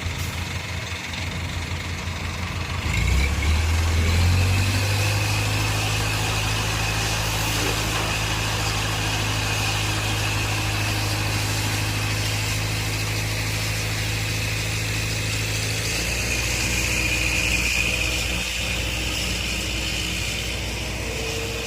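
Heavy diesel engine running, stepping up in speed about three seconds in, holding steady, then dropping back to a lower speed near the end, with a steady high whine over it.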